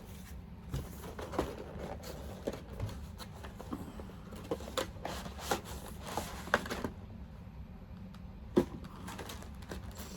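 Handling of a sealed trading-card box: scattered light taps and clicks with soft rustling of its cardboard and wrapping, as it is turned over and worked at to get it open.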